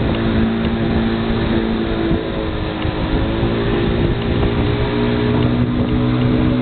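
Boat motor running steadily under way, its pitch shifting slightly up and down.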